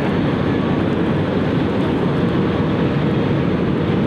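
Jet airliner engines running steadily, an even, dense rush of noise with no breaks.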